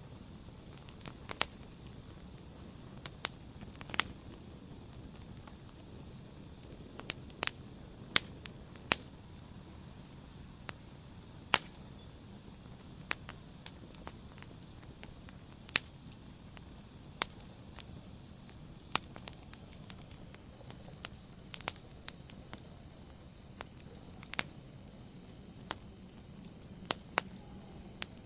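Wood fire burning in a fireplace: a low steady hiss with sharp, irregular crackles and pops from the burning logs.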